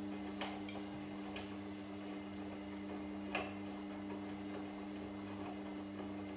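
Washing machine running with a steady hum, with a few light clicks and knocks scattered through it; the sharpest comes about three and a half seconds in.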